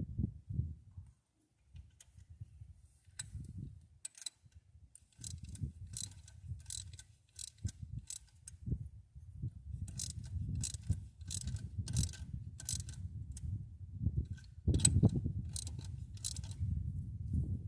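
Ratchet wrench clicking in irregular runs of short, sharp clicks during rocker arm adjustment on a Ford V8, over a low rumble.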